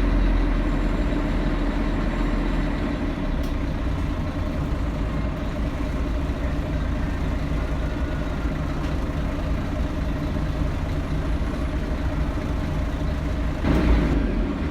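Scania L113CRL bus's 11-litre straight-six diesel engine running, a steady low drone heard from inside the cabin. A brief louder swell comes near the end.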